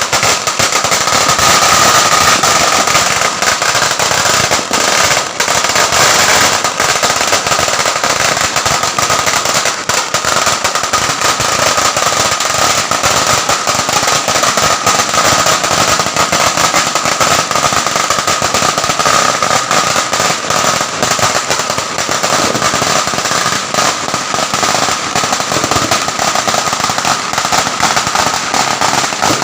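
Fireworks going off in a dense, unbroken crackle of rapid bangs, loud and steady throughout.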